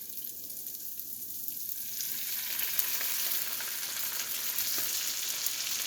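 Asparagus in garlic sauce sizzling in a hot pan. The sizzle grows louder and fuller about two seconds in, as white cooking wine hits the pan and starts to steam.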